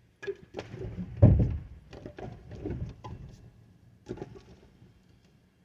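Pieces of firewood knocking and thudding as they are loaded: an irregular series of wooden knocks, the heaviest thud about a second in, then lighter knocks that thin out toward the end.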